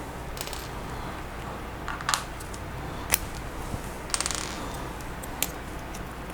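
Small hard plastic Lego Technic pieces clicking and clattering as they are pulled apart and set down: a few separate sharp clicks and a brief rattle about four seconds in.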